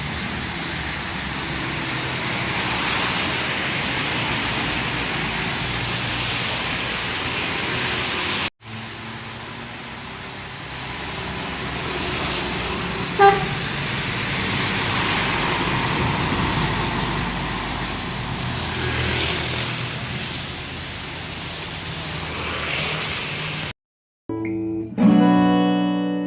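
Traffic passing on a wet road in the rain: a steady hiss of tyres on wet tarmac and rain, with large vehicles going by, and a brief horn beep about 13 seconds in. Near the end the road sound cuts off and strummed acoustic guitar music begins.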